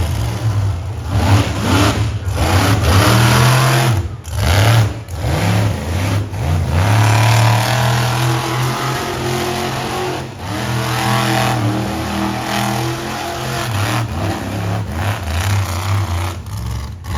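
Monster truck engine revving hard, its pitch climbing and falling with brief drops as the throttle comes off and goes back on.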